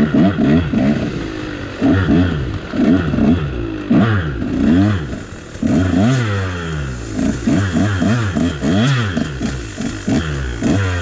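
KTM dirt bike engine revved in quick repeated bursts, its pitch climbing and dropping again and again as the throttle is worked on and off.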